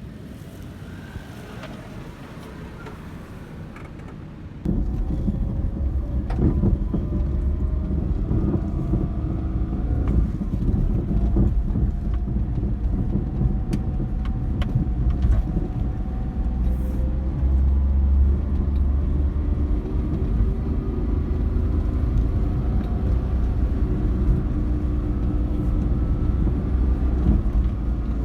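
Terios Kid's rebuilt EF-DET 660 cc three-cylinder turbo engine running steadily, its pitch drifting slightly. It comes in suddenly about five seconds in, after a few seconds of quiet background noise.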